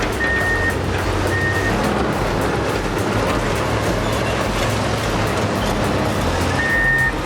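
Heavy construction machine's engine running, with its backup alarm beeping twice about a second apart early on and once more near the end, over background music.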